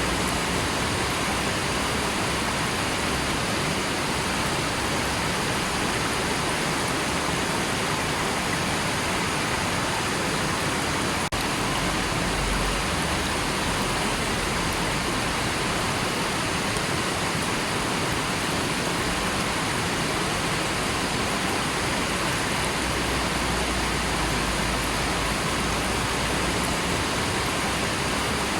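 River water rushing steadily, an even unbroken wash of noise. There is one brief click about eleven seconds in.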